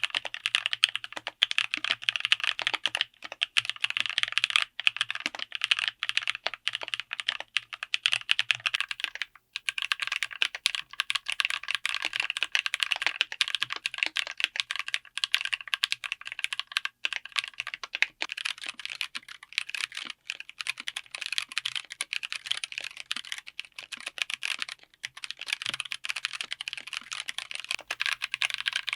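Continuous fast typing on a mechanical keyboard fitted with tactile switches, a dense run of clacking keystrokes. The typing breaks off briefly about nine seconds in, then carries on.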